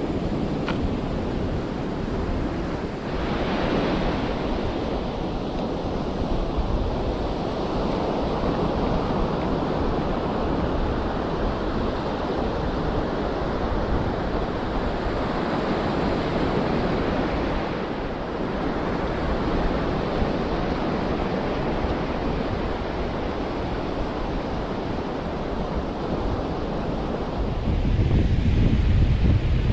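Ocean surf washing steadily onto a beach, with wind buffeting the microphone; a strong gust of wind rumble comes in near the end.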